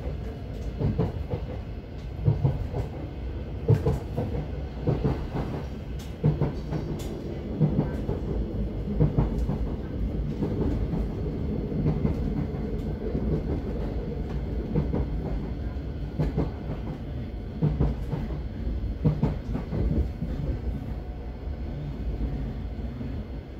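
Thameslink Class 700 electric train running along the track, heard inside the carriage: a steady low rumble of wheels on rails with irregular knocks and clatter, easing off slightly near the end.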